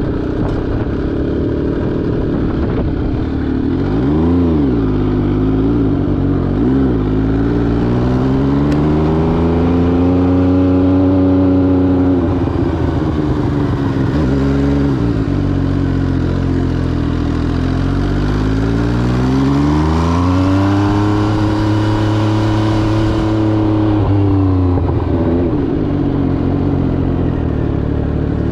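MV Agusta Brutale 800RR's three-cylinder engine through an SC Project exhaust, pulling and backing off while riding. A few quick blips of the throttle are followed by two longer pulls in which the pitch rises, holds and falls away.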